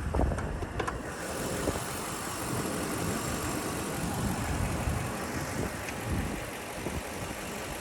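2004 Toyota Land Cruiser's 4.7-litre 2UZ-FE V8 idling steadily and smoothly, heard from the open engine bay, with wind on the microphone dying away in the first second.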